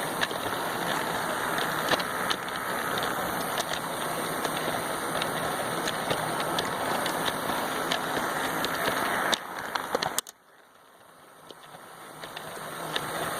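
Lego train running on plastic track: a steady motor-and-wheel whir with scattered clicks. It drops away abruptly about ten seconds in and then gradually grows louder again.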